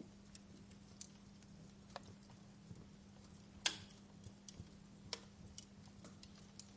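Fire crackling: irregular small snaps and ticks, with one louder pop a little past halfway, over a faint steady low hum.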